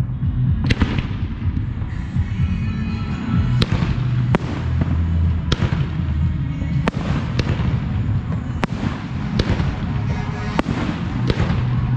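Aerial fireworks shells bursting in quick succession: about a dozen sharp reports, roughly one every half second to second, over a continuous low rumble of the display.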